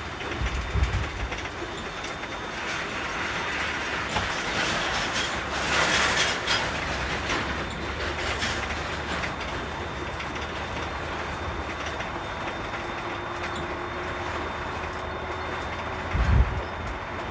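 Container truck driving, heard from the cab: a steady rumble of engine and road noise with rattling. There are two heavy thumps, one about a second in and one near the end, and a hissing surge around the middle.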